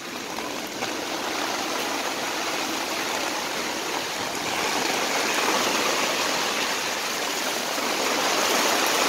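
Heavy downpour of rain, an even steady hiss that grows a little louder about halfway through.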